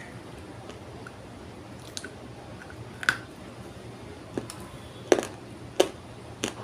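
A dry block of multani mitti (fuller's earth clay) being crunched, giving about six sharp, crisp cracks at uneven intervals. The loudest cracks come a little past halfway, over a steady low hum.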